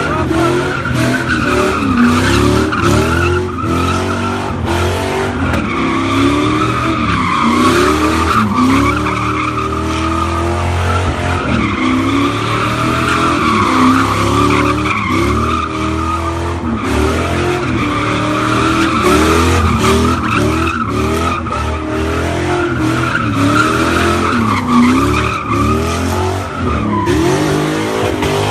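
A car's tires squealing without a break on pavement while its engine revs up and down again and again, as a car does when spinning donuts at a sideshow.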